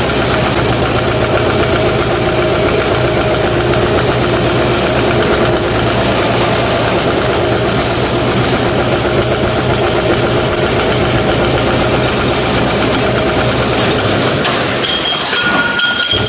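CNC high-speed sheet-metal stamping press running continuously, punching in a rapid, even stream of strokes. A brief steady high tone joins near the end.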